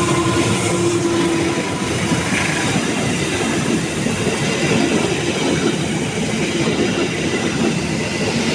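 A diesel-electric locomotive and its passenger coaches passing at close range. A steady engine hum fades in the first second or two, and the coaches' wheels keep up a continuous loud rumble and clatter on the rails.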